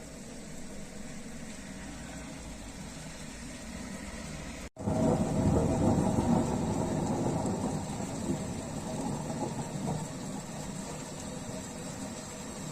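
Thunder rumbling, low and loud, starting abruptly about a third of the way in after a momentary break in the sound and slowly fading over several seconds, over a steady hiss of rain.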